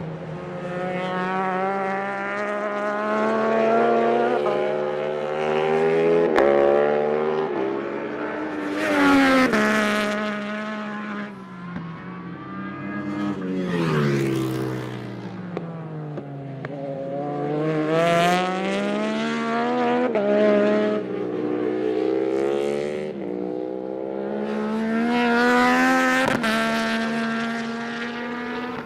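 Yamaha YZF-R9 race bike's three-cylinder engine at full racing speed, revving up through the gears in rising pulls broken by quick shifts, then winding down on the brakes into corners, several times over.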